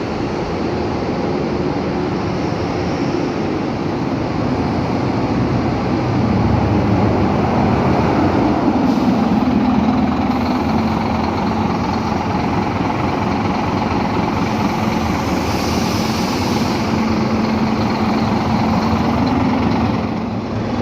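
Scania K310UA articulated city bus heard from inside while it drives, its engine running under a constant rush of road and body noise. The engine note rises and eases a couple of times as the bus pulls and slows.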